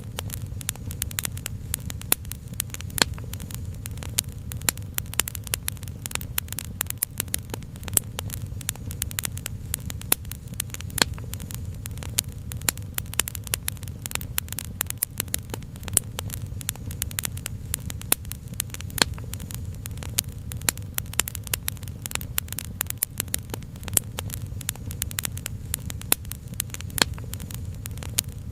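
Wood fire crackling with many irregular sharp pops and snaps over a steady low rumble.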